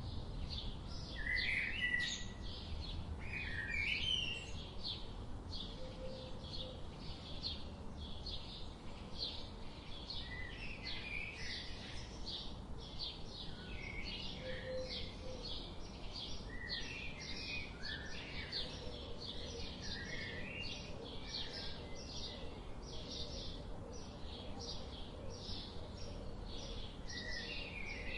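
Wild birds chirping: a steady run of short, high chirps a few times a second, with lower warbling calls scattered over it and a steady low background noise underneath.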